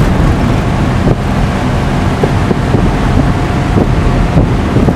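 An engine running steadily with a low drone, with wind buffeting the microphone.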